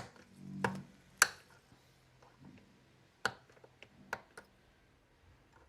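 A few sharp, separate clicks and taps of a small hand tool against the plastic housing of a robot vacuum, spaced a second or more apart, as hardened glue is picked out of a screw hole.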